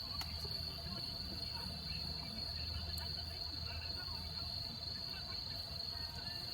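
Crickets chirring steadily: one continuous high trill with no break.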